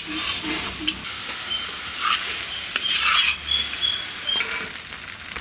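Chicken pieces sizzling as they roast in a hot pan, with sharp clicks of a spoon scraping and stirring. A run of short, high chirps sounds about halfway through.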